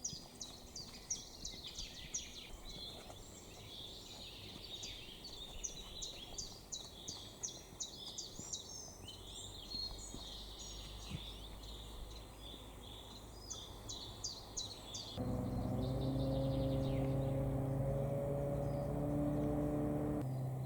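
Songbirds chirping and singing over a faint outdoor background. About fifteen seconds in it cuts abruptly to a louder, steady low hum with several held tones.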